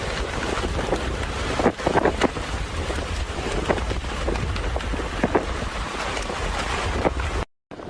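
Storm wind buffeting the microphone: a steady heavy rush with a deep rumble and scattered sharp knocks. It cuts out for a moment near the end.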